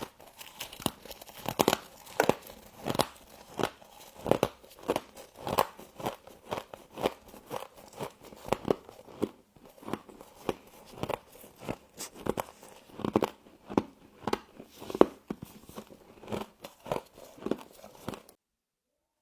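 Close-up crunching and chewing of mouthfuls of humidifier frost, a sharp crunch every second or so, bite after bite; it cuts off suddenly near the end.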